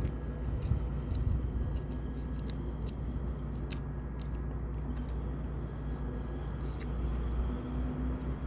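A person chewing food close to the microphone, with scattered small wet clicks from the mouth, over a steady low hum.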